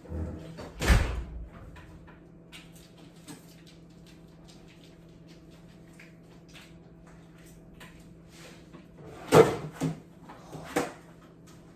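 Household knocks and thumps: one loud thump about a second in, a few faint clicks, then a cluster of sharp knocks near the end, over a faint steady hum.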